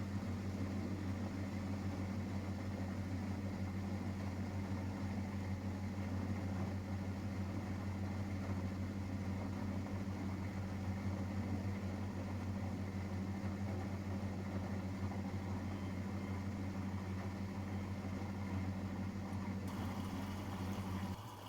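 Miele Professional WS5436 washing machine running mid-cycle with a steady, even hum that cuts out just before the end.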